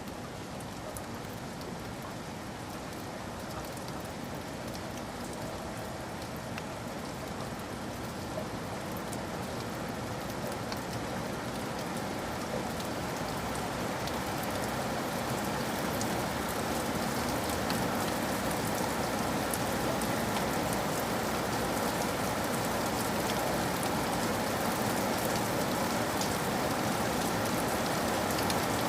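Steady rain falling: an even hiss with scattered drop taps, slowly getting louder.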